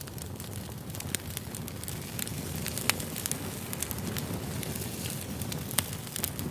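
Campfire crackling: a steady low rumble of burning wood with scattered sharp pops and snaps, a couple of louder pops about three seconds in and near the end.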